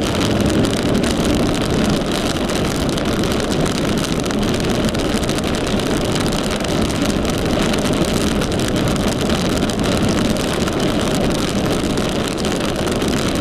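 Steady road and engine noise heard from inside a moving car, with wind noise mixed in.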